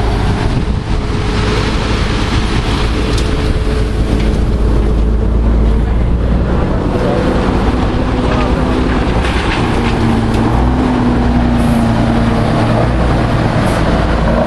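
Diesel engine of a MAN 32.281 tipper truck running, a steady low rumble whose pitch steps up slightly about halfway through as the revs rise a little.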